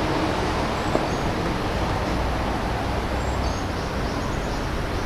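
Steady outdoor background noise at a ball field, with one short sharp click about a second in.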